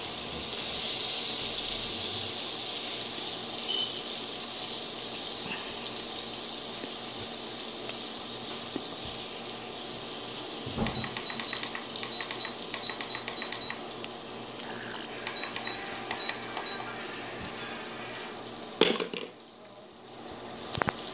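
Floured chicken pieces frying in hot olive oil and butter in a skillet: a steady sizzle, with a stretch of rapid crackling pops about halfway through. Near the end a sharp knock, after which the sizzle briefly drops away.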